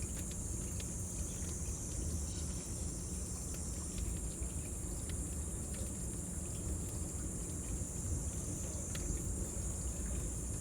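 Wood fire crackling, with scattered sharp pops over a low rush, under a steady high-pitched drone of cicadas.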